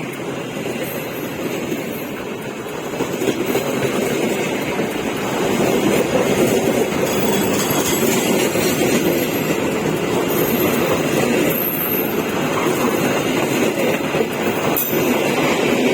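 Wijayakusuma passenger train rolling out of the station, its wheels and carriages running on the track as a steady rumble that grows louder about three seconds in and then holds.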